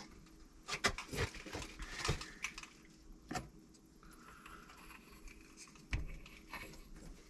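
A scattered series of light clicks and knocks, like metal tools or parts being handled, over a faint steady hum.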